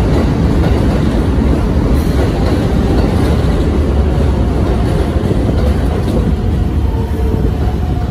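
A red Keikyu electric train running past at close range on elevated track, a steady, loud rumble of wheels on rail. It fades as the last car goes by at the end.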